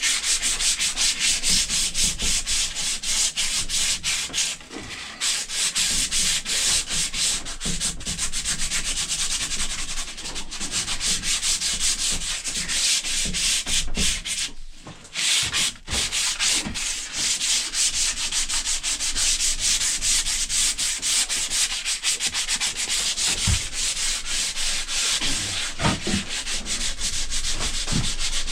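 Sandpaper rubbed rapidly back and forth by hand on a wooden axe handle, a steady scratchy rasp with a brief pause about halfway through.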